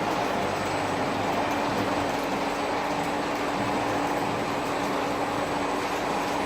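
A theme-park ride vehicle running steadily on its way, a continuous rumble with a constant low hum under it.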